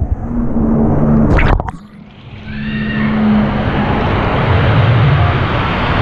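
Loud rushing, splashing water close on the microphone, as on a water-park ride. It turns briefly muffled and quieter about two seconds in, then comes back full.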